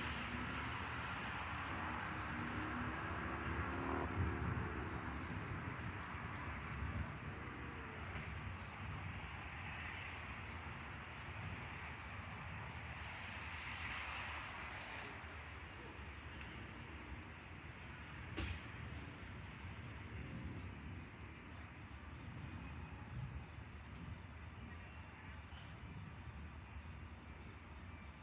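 Crickets chirring in one steady high-pitched trill, with the wash of a passing vehicle fading away over the first several seconds.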